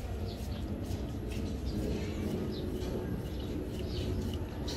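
Small birds chirping now and then, over a steady low rumble.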